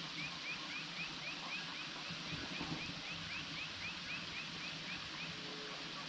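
A bird calling a long run of short, rising, evenly spaced notes, about four a second, that stops near the end, over a steady background hiss.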